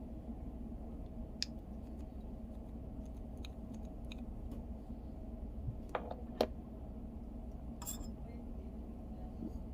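A few sharp clicks and taps from small parts of a car's multimedia commander control knob being handled during teardown, over a steady low hum. The loudest clicks come a little after six seconds, with others near one and a half and eight seconds.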